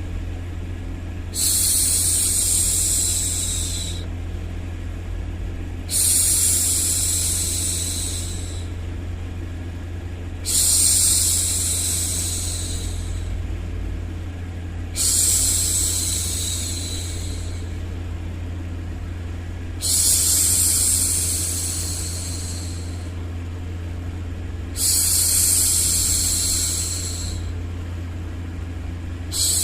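A woman's voice hushing 'shhh' over and over, about every five seconds, each shush starting sharply and trailing off over two or three seconds. A steady low hum of white noise runs underneath.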